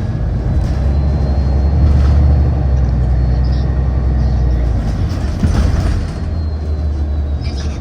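Inside a moving MBTA city bus: the engine and road noise make a steady low rumble. It grows louder about a second in and eases off about six seconds in.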